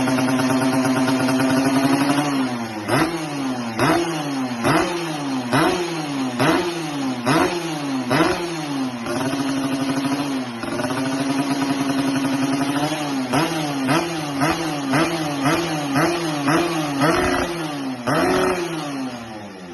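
Yamaha RX-King's single-cylinder two-stroke engine through an aftermarket racing exhaust, held at a steady raised rev and then revved in repeated throttle blips, each rising and falling in pitch. The blips come about one a second at first; after a second steady hold they come about two a second, and the engine settles down near the end.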